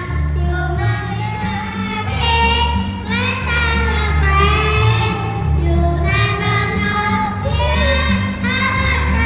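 Children singing a song together over an amplified backing track with a pulsing bass.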